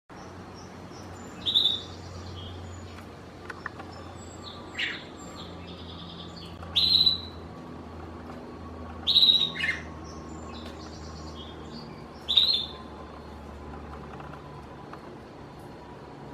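Budgerigar chirping: about six loud, sharp chirps every two to three seconds, with softer chatter between them, over a faint low steady hum.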